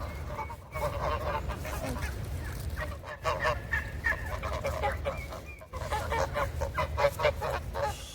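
A flock of domestic geese honking and gabbling, with many short calls overlapping in quick runs.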